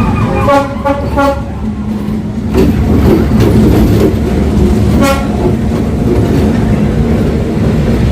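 Train horn sounding two short toots, then the heavy rumble of the train passing close by from about two and a half seconds in, with one more short toot about five seconds in.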